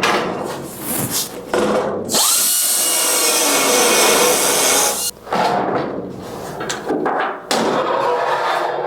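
A power tool runs for about three seconds, spinning up at the start and cutting off suddenly, with knocking and scraping of work being handled before and after it.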